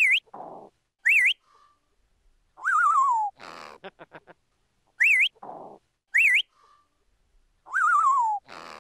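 Parrot whistling: short rising, wavering whistles, a longer falling warbled whistle, a few quick clicks and a low raspy note. The same sequence repeats about every five seconds.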